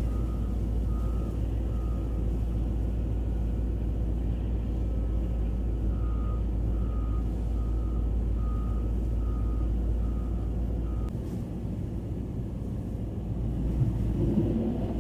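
Vehicle engine and road rumble under a repeating electronic beep, one short tone about every 0.6 seconds. The beeping, like a backup alarm, stops about 11 seconds in, and the rumble drops at the same moment.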